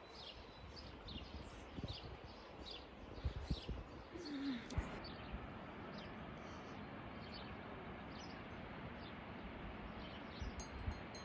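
A small bird calling over and over with short high falling chirps, quick and regular at first, then more sparse, over a steady background hiss of outdoor ambience.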